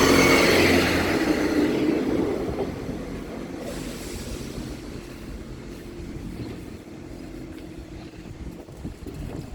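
Diesel train running over the level crossing, its engine and wheel noise loud at first and fading steadily over the first few seconds as it draws away, leaving a low rumble.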